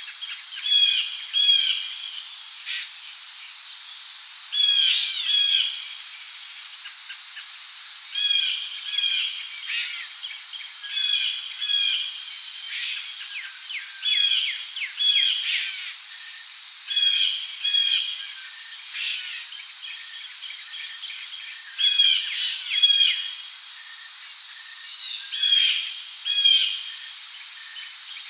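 Tropical rainforest ambience: a steady high-pitched insect drone, with birds calling over it again and again in short phrases every second or two.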